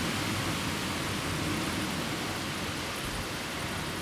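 Steady rushing noise of thunderstorm rain, even and unbroken, with no thunderclap.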